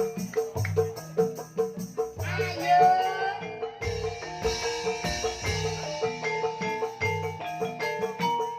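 Instrumental passage of Banyumasan gamelan music: mallet-struck keyed percussion playing a steady repeating note about three times a second under interlocking melody, with a short sliding melodic line about two seconds in.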